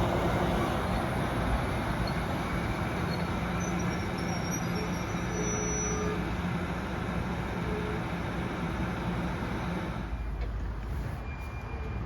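Northbound train passing: a steady rumble with a constant low engine hum, dropping away sharply about ten seconds in as the train goes by.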